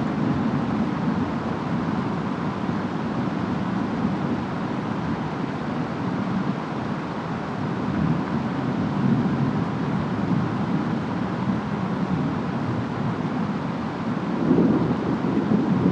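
Distant storm ambience: steady rain and wind with a low rumble underneath, swelling louder about fourteen seconds in.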